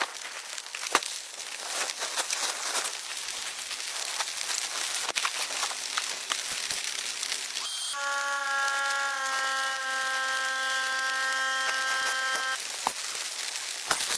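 Heavy rain pattering steadily, with many small drop ticks. A steady pitched tone with several overtones comes in about midway, then cuts off suddenly a couple of seconds before the end.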